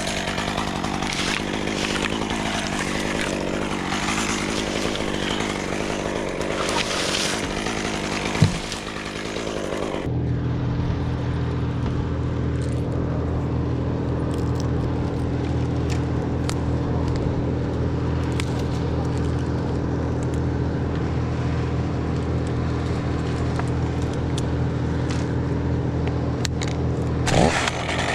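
Chainsaw running, noisy and uneven at first with a sharp knock partway through. About ten seconds in, the sound switches abruptly to a steady engine drone at one unchanging pitch.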